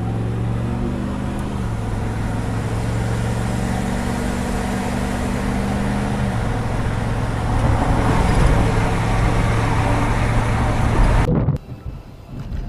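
Vehicle engine hum and road noise heard from a moving vehicle, the engine tone shifting twice. The noise grows louder in the latter part, then cuts off abruptly near the end.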